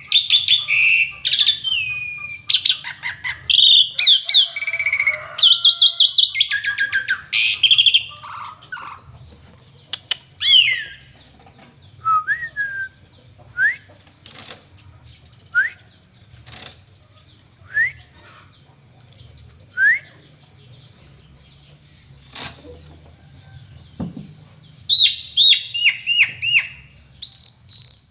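Pied starling (jalak suren) singing in a long burst of varied whistles, chatters and rattling phrases. It then pauses with single short rising whistle notes about every two seconds, and breaks into a dense burst of song again near the end.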